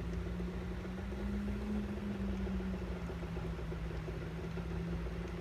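A steady low mechanical hum: a motor or engine droning on one slightly wavering tone, with a low rumble beneath.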